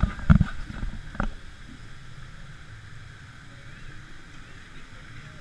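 Steady rushing of water and low rumble as a round river-rapids raft rides along, with a few sharp knocks in the first second or so.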